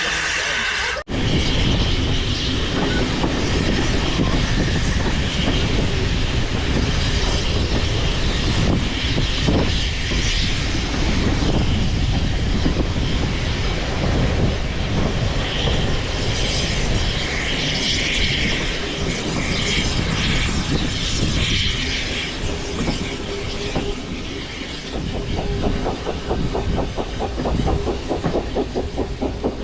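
Heritage train running along the rails: a steady rumble with clattering wheels and some high wheel squeal, and a quicker, even clatter near the end.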